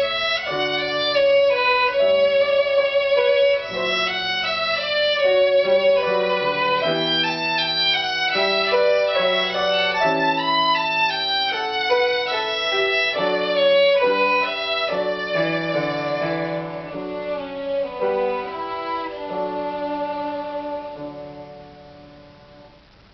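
Violin playing a slow melody over lower sustained accompanying notes, the music dying away near the end.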